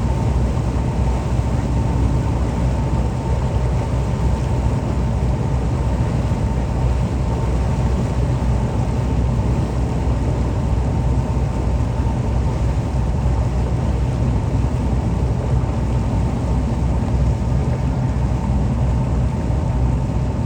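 Boat engine running steadily, a constant low drone heard from on board.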